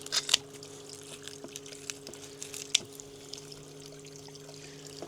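Boat's electric trolling motor running with a steady hum, with water trickling and splashing. A few sharp knocks come near the start and about three seconds in.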